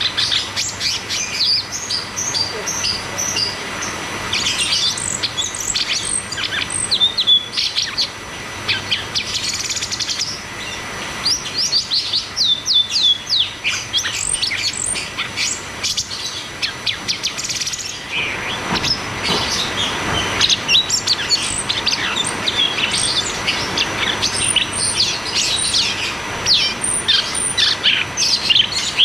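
Cucak cungkok leafbird singing long, rolling runs of rapid, high whistled notes that sweep up and down in quick succession, the fast 'ngeroll tembak' style of song used as a master recording to get other birds singing.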